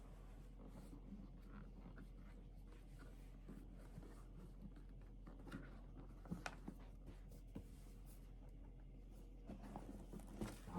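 Near silence: quiet room tone with a low hum and a few faint scratches and soft clicks.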